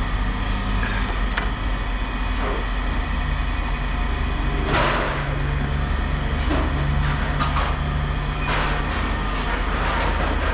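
An engine running steadily, a low hum, with brief clanks and rattles of scrap metal being handled about halfway through and again near the end.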